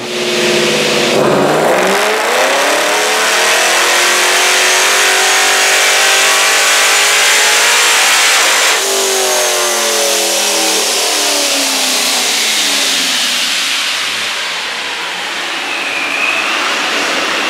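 Supercharged LSX 376-B15 V8 in a C6 Corvette making a full-throttle dyno pull. The engine note climbs steadily for about seven seconds with a high Procharger whine rising with it, then both fall away as the engine comes off throttle and winds down.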